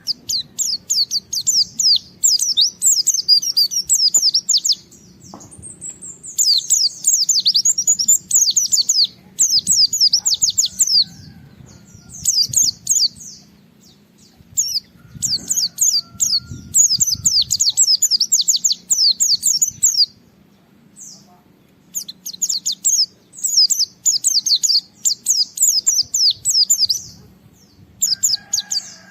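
A pleci (white-eye, Zosterops) singing in full, vigorous chattering song, the way a male sings when challenging a rival: rapid strings of high, quickly falling notes in bouts of one to four seconds separated by short pauses, with a longer pause a little past the middle. A faint steady low hum lies underneath.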